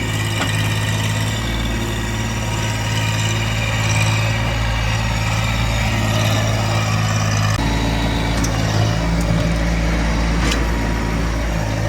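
Small tractor's engine running steadily while digging, its note shifting about two-thirds of the way through, with a few sharp clicks near the end.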